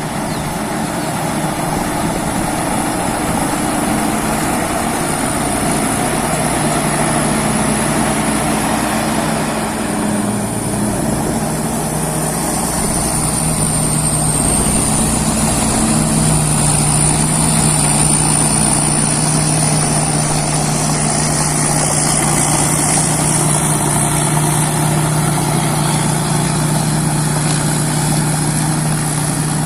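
Rice combine harvester running steadily under its diesel engine, with a thin high-pitched whine over the engine note; the engine pitch settles slightly lower about halfway through.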